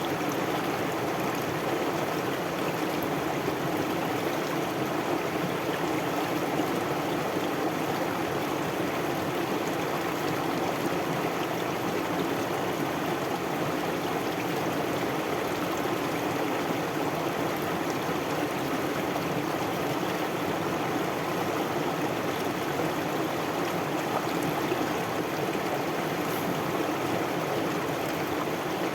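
Stream water flowing steadily over stones, a continuous even babbling rush.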